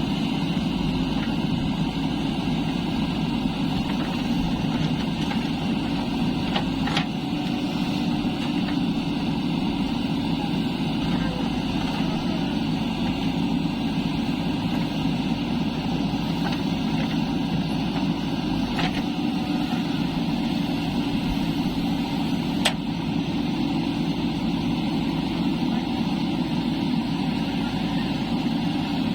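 Diesel engines of a backhoe loader and tractors running steadily at a loading job, with a few sharp knocks now and then.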